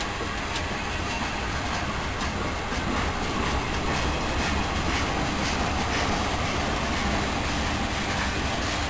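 Freight train's tank cars and boxcars rolling past close by: a steady rumble and rail noise, with wheels clicking over rail joints about once or twice a second.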